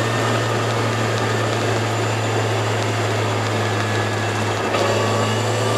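Turbocharged Toyota AE86 engine running at steady revs while the car cruises, with road noise. The pitch holds level, with a slight wobble about five seconds in.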